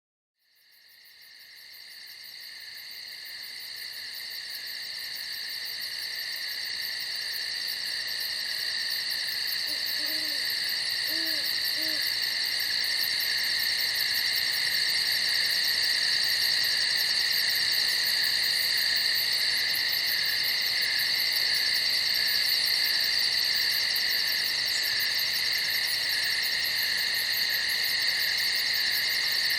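A dense chorus of crickets chirping in a steady, continuous high trill that fades in from silence over the first few seconds. Three faint, short low calls sound about ten to twelve seconds in.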